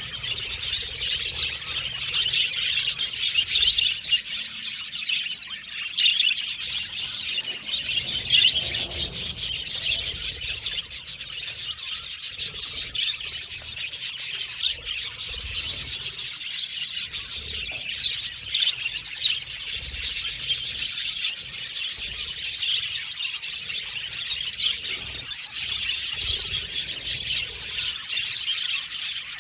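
A flock of budgerigars chirping and singing together in a dense, continuous chatter of many overlapping calls.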